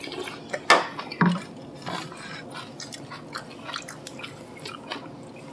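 A person chewing fresh napa cabbage kimchi (geotjeori), with many small wet clicks and smacks. Two sharp clicks about a second in are the loudest sounds.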